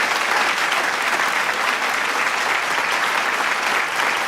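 A large crowd clapping and cheering, steady and dense applause without a break.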